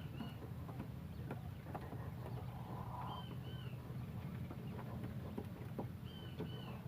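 Wild quail calling: a pair of short, high, arched notes repeated about every three seconds, over a steady low rumble with scattered light clicks.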